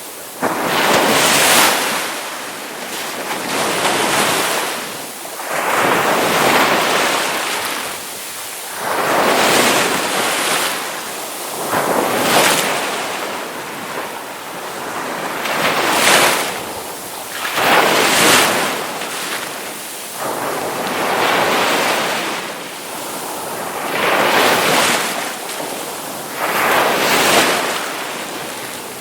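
Ocean waves breaking and washing onto a shore in repeated surges, each swelling and falling away every two to three seconds.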